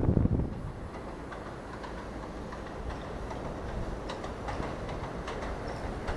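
New York City subway train running through the station: a steady rail rumble, louder at the start, with a few sharp clicks of wheels over rail joints near the end.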